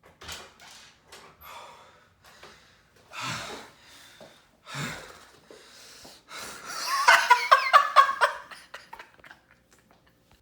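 A person breathing audibly with several sharp breaths, then a short burst of loud laughter in quick pulses about seven seconds in.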